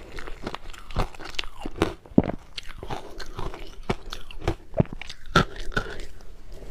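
Crushed ice being bitten and chewed close to the microphone: irregular sharp crunches, about one or two a second.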